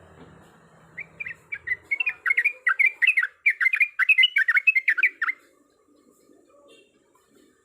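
Yellow-vented bulbul (trucuk) singing a rapid, chattering run of short bubbling notes for about four seconds, starting about a second in and stopping abruptly.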